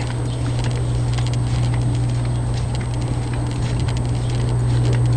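Footsteps on a sandy trail: a string of small irregular ticks and crunches, over a steady low hum.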